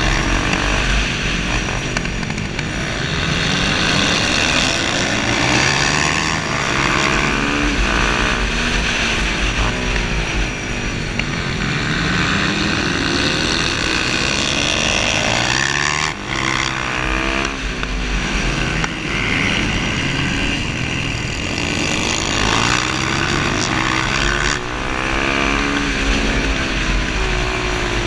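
Suzuki DR-Z400SM's single-cylinder four-stroke engine under hard racing throttle, its pitch rising and falling again and again as it revs out, shifts and backs off through a series of corners.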